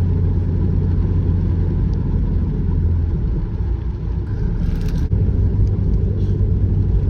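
Car engine and road noise heard from inside the moving car: a steady low hum that shifts slightly about five seconds in, with a brief click around the same moment.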